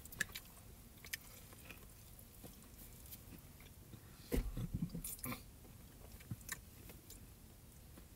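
A person biting into and chewing a spicy chicken sandwich: faint crunching and wet mouth sounds, with a louder stretch about halfway through.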